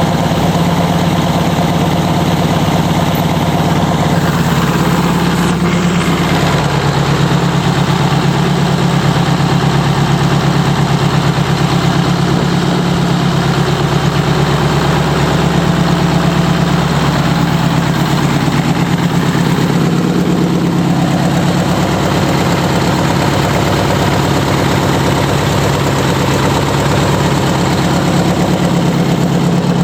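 Detroit Diesel 6V92TA, a two-stroke turbocharged V6 diesel truck engine, idling steadily with an even, unchanging note.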